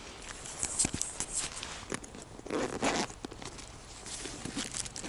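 A backpack zipper and the rustle of things being rummaged through, with scattered light clicks; the loudest rustle comes about halfway through.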